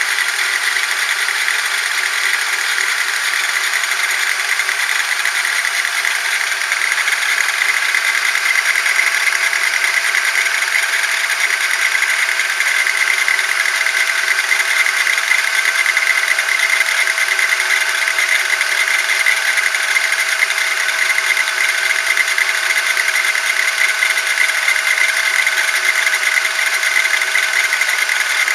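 Steady mechanical whine with a buzzing edge from the steering of a 2008 eighth-generation Honda Civic, several high tones held steady and a little louder after about eight seconds: the abnormal steering-wheel noise the owner is recording.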